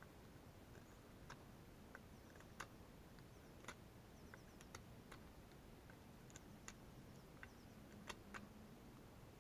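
Near silence broken by faint, irregular sharp clicks and ticks, about a dozen in all, with a few quick runs of tiny high ticks.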